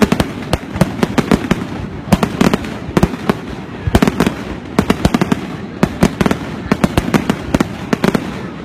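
Aerial fireworks display: many sharp bangs in quick, irregular succession, a few each second, over a continuous rumble.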